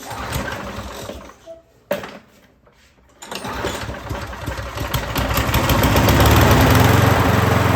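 Toro walk-behind lawnmower engine being pull-started: it fires about three seconds in, builds up and settles into a steady run by about six seconds, showing that the newly fitted ignition coil now gives spark.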